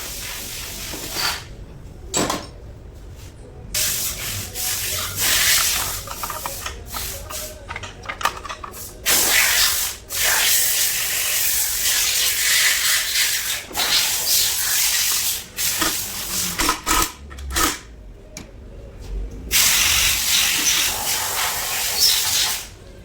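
Repeated bursts of pressurised spray hissing on and off, each lasting from under a second to a few seconds, with short gaps between, as gearbox parts are sprayed clean.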